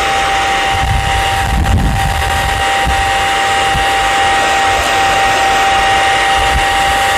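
Hair dryer running steadily: a constant motor whine over a loud rush of air, with low gusts of air buffeting the microphone in the first two seconds.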